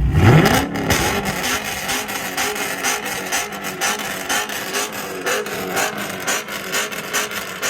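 The V8 exhaust of a 2017 Dodge R/T revs up sharply at the start, then keeps revving with a rapid string of crackles and pops through a loud exhaust.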